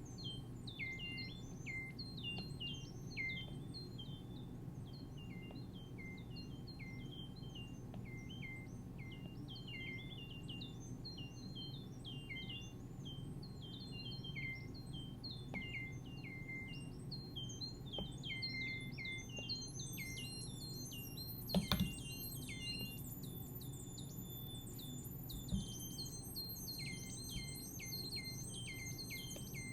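Synthesizer (Minimoog app on an iPad) playing a dense stream of quick, bird-like chirping blips that jump up and down in pitch, over a steady low hum. About two-thirds of the way through, a layer of higher held tones joins the chirps. A double knock near that point is the loudest sound, and a single knock follows a few seconds later.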